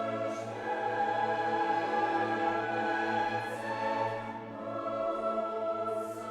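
Classical choral music: a choir singing long held chords, changing chord about a second in and again near two-thirds of the way through.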